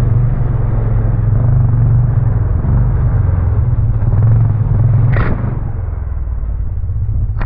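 ATV engine running steadily on a trail ride, a constant low rumble with no big revving, and a brief higher-pitched sweep about five seconds in.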